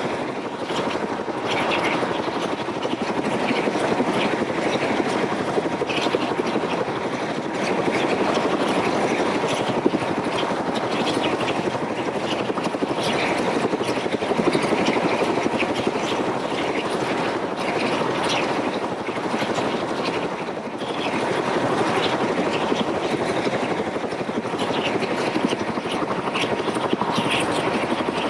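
Helicopter in flight: steady rotor and engine noise, dipping briefly about twenty seconds in.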